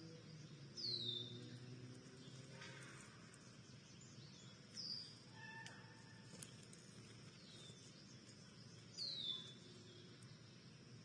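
Backyard songbird giving short, high, down-slurred chirps, three clear ones a few seconds apart and a fainter one between, over faint steady outdoor background noise.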